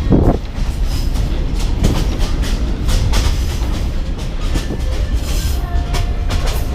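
Passenger train carriage in motion: a steady low rumble with irregular knocks and clatter about a second apart. The carriage is shaking hard over poorly kept track.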